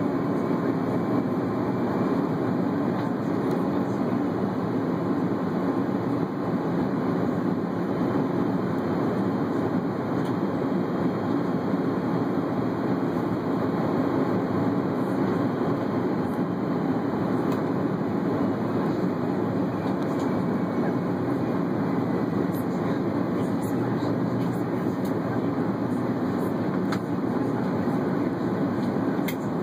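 Steady rumble of an Airbus A330's engines and airflow, heard from inside the cabin.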